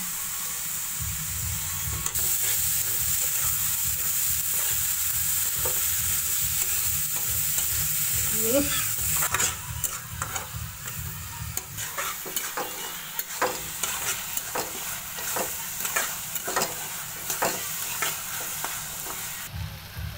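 Onion-tomato masala sizzling in oil in a kadhai while a metal spatula stirs it. From about halfway on, the spatula scrapes against the pan in many quick strokes. The sizzle dies down near the end.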